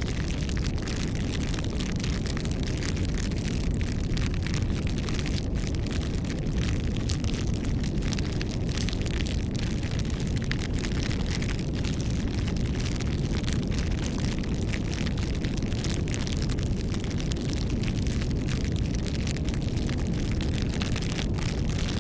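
Wood bonfire burning: a steady low rush of flame with frequent small, irregular crackles and pops.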